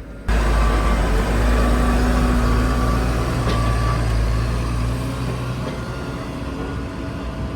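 A heavy vehicle running with a loud, steady low rumble. It begins abruptly just after the start and eases off slightly in the second half.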